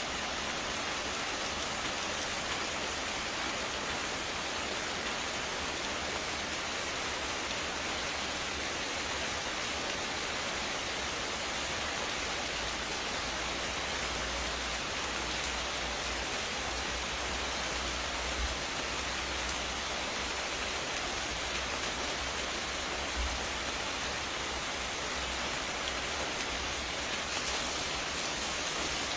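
Steady rain hiss, even throughout, with no bird call standing out; a couple of brief low thumps about 18 and 23 seconds in.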